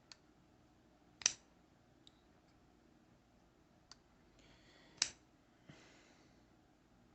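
CIVIVI Elementum folding knife being flipped: sharp metallic clicks as the blade snaps open and shut, two loud ones about a second in and about five seconds in, with a few lighter ticks and two short rubbing sounds between them.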